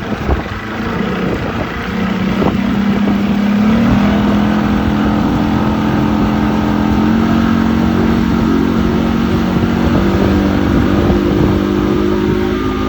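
Motorboat engine running, its pitch rising twice in the first few seconds as it speeds up, then holding steady under way, with rumbling wind or water noise.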